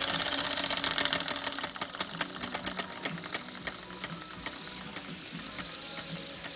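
Jensen No. 76 model steam engine chuffing: rapid exhaust beats over a steady high hiss, slowing about a second and a half in to spaced ticks that come farther and farther apart as the engine runs down.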